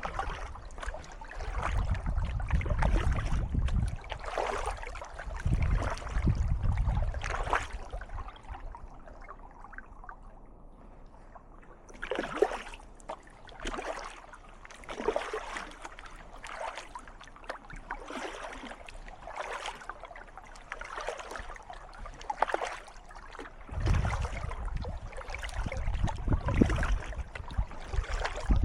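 Kayak paddle strokes dipping and splashing in calm water, a stroke about every 1.3 seconds, easing off for a few seconds near the middle. Wind rumbles on the microphone at the start and again near the end.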